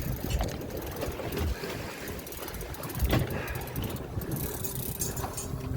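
Steady running noise of a fishing boat at sea: wind, water and motor hum, with a sharp knock about three seconds in.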